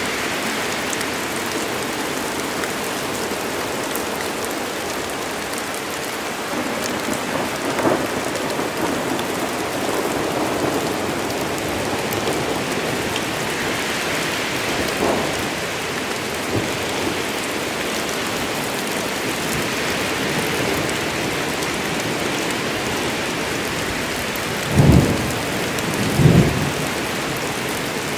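Steady rain falling, with two short, low thunder rumbles close together near the end.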